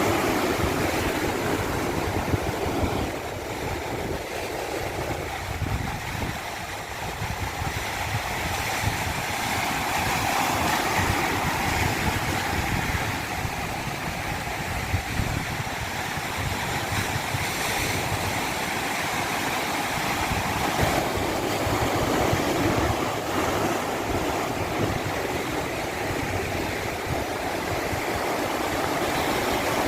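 A natural stream rushing in a steady, continuous wash of water noise that swells and eases slightly, dipping a little a few seconds in.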